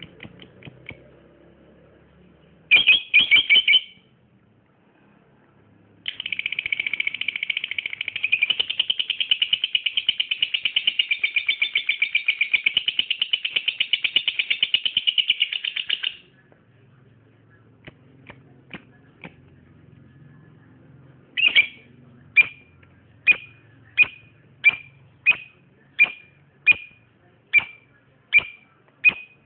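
Lovebird singing in high, rapid chirps: a short burst, then a long unbroken chattering trill of about ten seconds, then a run of single sharp chirps, about one and a half a second.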